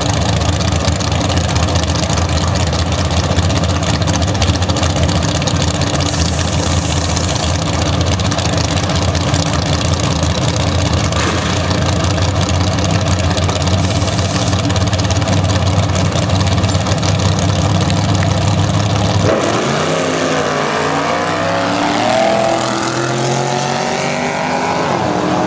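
Drag-racing engines running with a steady, loud rumble; about three quarters of the way through, the sound changes to engines accelerating hard, the pitch rising again and again.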